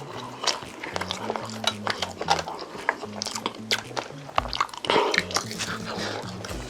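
Close-miked chewing and biting of food: a quick run of wet mouth clicks and smacks. Background music with low held notes plays underneath.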